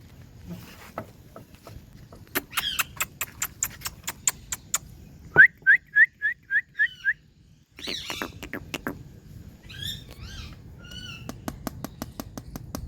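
Indian ringneck parakeet vocalizing: a string of seven short rising chirps about halfway through, a few harsher calls after a brief pause, and runs of sharp clicks before and near the end.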